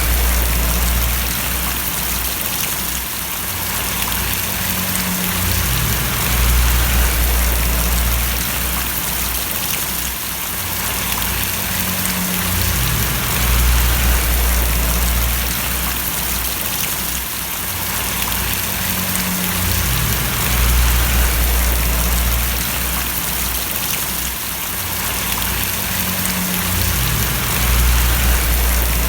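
Steady rain splashing on a surface, a constant hiss of falling drops. Under it a low rumble swells and fades about every seven seconds.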